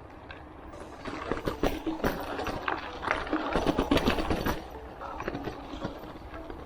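Merida Big Trail hardtail mountain bike setting off along a dirt trail: tyres on the rough surface and the bike rattling and clicking over bumps. The rattle picks up about a second in and is busiest in the middle.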